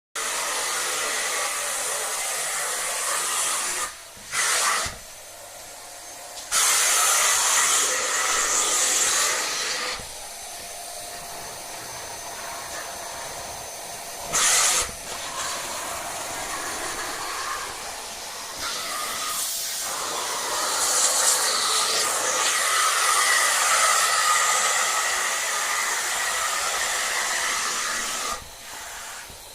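Vacuum cleaner running with a loud rushing hiss that swells and fades as it is worked back and forth, with a few short dips and surges.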